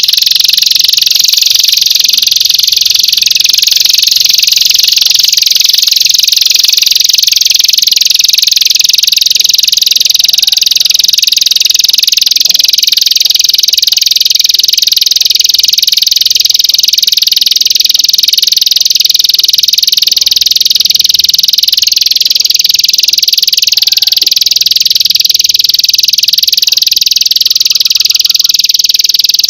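A loud, unbroken, shrill trill with a fast pulsing texture, high in pitch like a singing insect's call, played as masteran song-training audio for songbirds.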